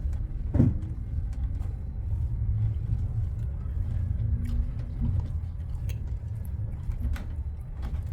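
Road vehicle running: a steady low rumble, with a single knock about half a second in.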